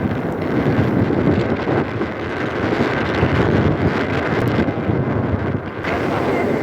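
Steady rushing noise of wind, buffeting the microphone, during rain.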